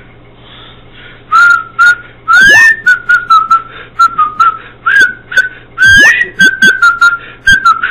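A person whistling a jaunty tune, very loud, starting about a second in, with short notes and a couple of swooping slides.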